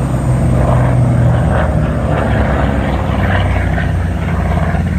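Aircraft engine running loud and low, its pitch dropping slightly about a second and a half in.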